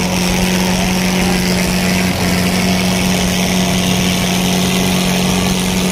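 Tractor diesel engine running hard at a steady, unchanging speed, with a brief dip about two seconds in.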